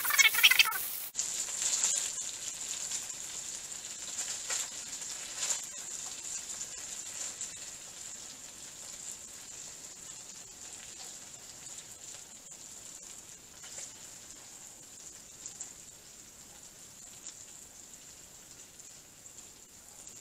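Honey-soy-marinated salmon chunks sizzling in oil in a wok, with loud crackling in the first second, then a faint steady sizzle that slowly dies down. Metal tongs click lightly a few times against the wok or plate as the pieces are lifted out.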